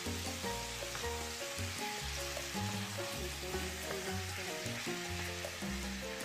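Diced raw chicken sizzling steadily in a hot frying pan, stirred with a wooden spatula, with background music playing.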